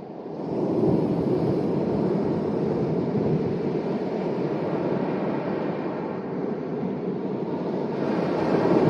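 Sea waves breaking and washing ashore: a steady rush of surf that swells just after the start and swells again near the end.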